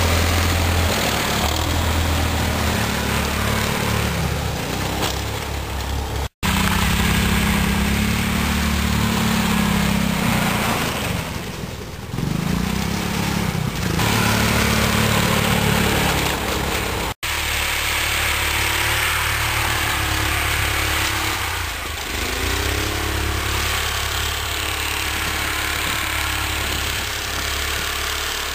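Snowmobile's 13 hp 389cc Honda-copy single-cylinder four-stroke engine running, its speed rising and falling, with two abrupt cuts in the sound.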